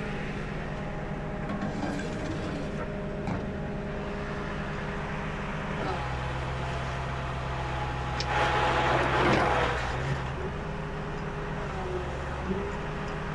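Tow truck engine running steadily; about six seconds in its note shifts lower and stronger. A loud hiss rises over it from about eight to ten seconds.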